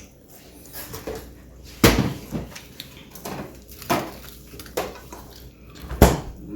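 Bites and chewing of crispy fried chicken: a series of sharp crunches, the loudest about two seconds in and again near six seconds, with smaller crackles between.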